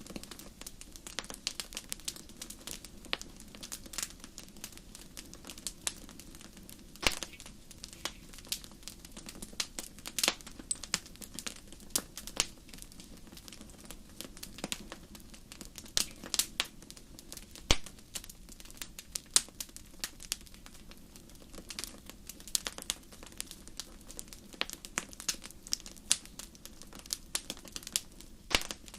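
Campfire crackling: burning wood giving off irregular sharp pops and snaps, some louder than others, over a steady low rush of the fire.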